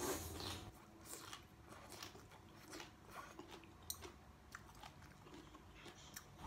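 A person biting into and chewing a mouthful of vegetables from a sour shrimp soup close to the microphone. The first bite is the loudest sound, followed by scattered small mouth clicks.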